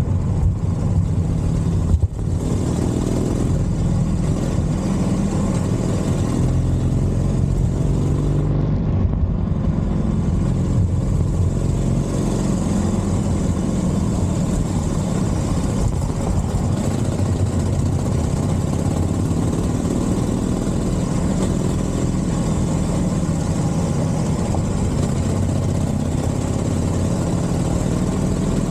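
Harley-Davidson Forty-Eight's air-cooled 1200 cc V-twin running steadily through a Scorpion exhaust, with a brief drop in sound about two seconds in.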